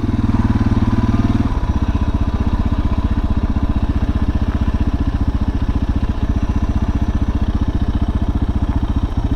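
Suzuki DR650's single-cylinder four-stroke engine idling with a steady, even thump, its note dropping slightly about a second and a half in.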